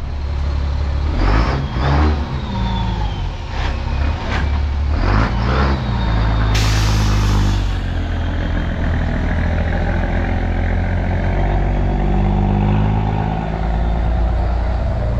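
A car's engine running with road noise, heard from inside the car as it moves slowly. A few knocks come in the first half, and a short sharp hiss, like a truck's air brake, comes about halfway through.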